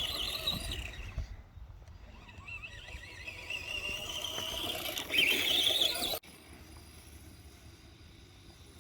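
Electric motor and gears of a stock Arrma Typhon RC monster truck whining as it is driven, the wavering whine climbing in pitch and loudest around five seconds in, then cutting off abruptly.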